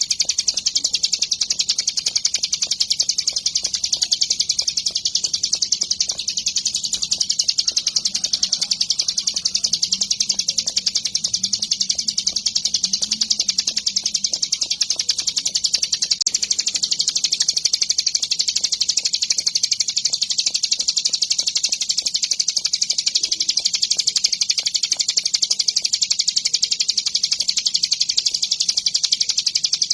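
Ciblek gunung, a prinia, singing a fast, unbroken run of high, rapidly repeated chirps at a steady level.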